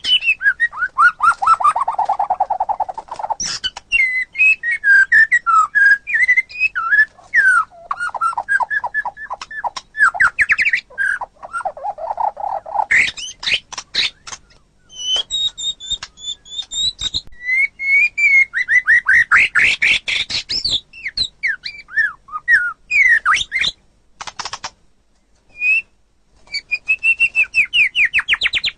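White-rumped shama (murai batu) singing a long, varied song: clear whistled phrases that glide up and down, fast runs of repeated notes and short clicking notes in quick succession, with a few brief pauses in the later part.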